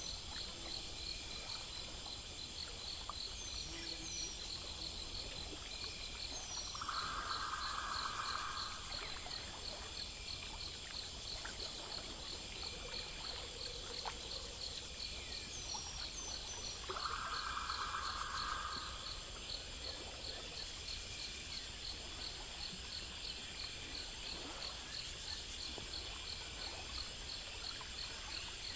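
Night chorus of crickets and other insects chirping in fast, even pulses over a steady hiss. Twice, a lower, louder trill of about two seconds stands out, and a few faint short chirps come in between.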